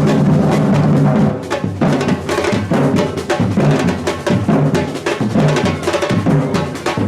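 A batucada samba percussion group playing: deep bass drums and snare drums beating a dense, steady rhythm.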